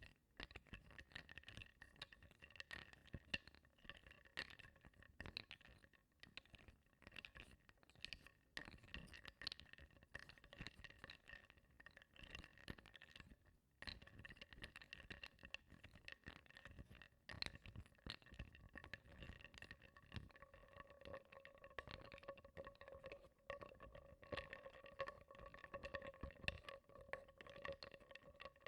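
Small wooden blocks being stirred in a bowl of water, softly knocking and clicking against each other and the bowl in a continuous quiet clatter with gentle sloshing. A faint steady tone comes in about two-thirds of the way through.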